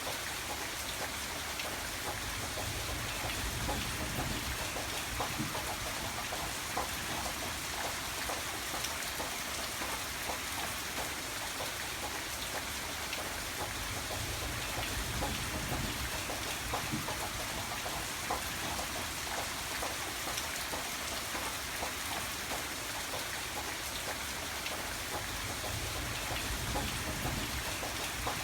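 Steady heavy rain falling on a surface, individual drops ticking through the hiss. A low rumble swells and fades about three times underneath.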